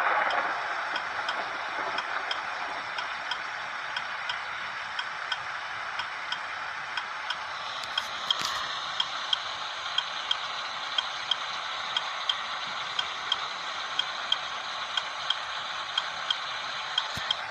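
Vehicle indicator flasher ticking evenly, a little under two ticks a second, over a steady engine hum.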